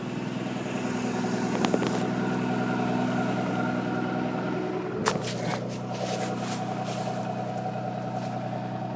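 1989 Celebrity ski boat's 4.3-liter Chevy V6 sterndrive engine idling steadily and quietly, with a couple of sharp clicks about two and five seconds in.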